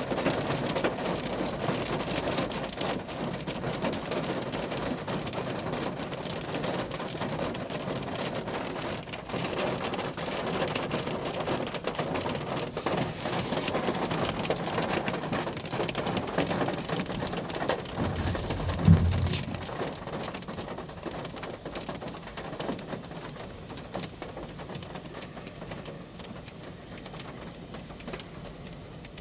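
Steady rain falling. There is a short low thump about two-thirds of the way through, and the rain grows quieter toward the end.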